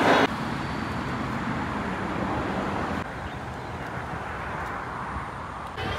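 Steady outdoor background noise with no distinct single source, dropping a little in level about halfway through.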